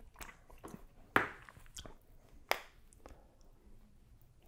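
Close-miked wet mouth sounds of eating: a few separate lip smacks and chewing clicks, with fingers being licked clean. The sharpest smacks come about a second in and halfway through.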